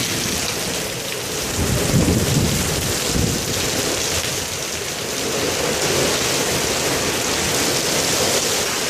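Heavy rain and strong gusting wind of a severe thunderstorm: a loud, steady rush of noise with low rumbling swells about two and three seconds in.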